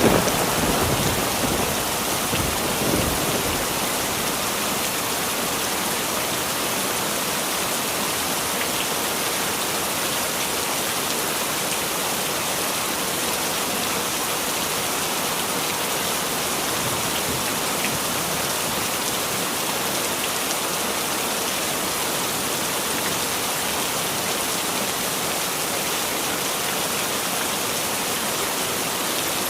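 Heavy rain falling steadily as a dense, even hiss, with the tail of a thunderclap rumbling away in the first second and a brief, fainter rumble of thunder about three seconds in.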